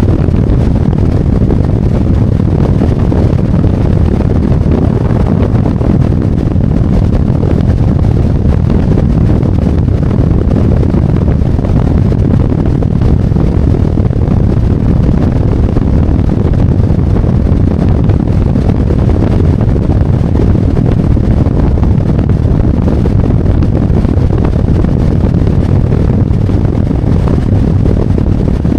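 Harley-Davidson Road Glide V-twin running steadily at cruising speed, mostly buried under loud, steady wind rush on the microphone.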